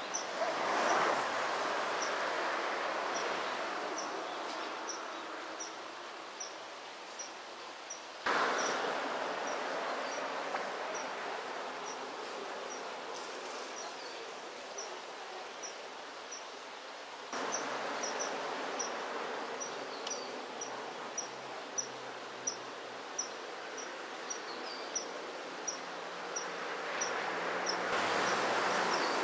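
Steady rush of flowing stream water, stepping abruptly louder about 8 seconds in and again about 17 seconds in. Over it a faint, high, short chirp repeats about one and a half times a second.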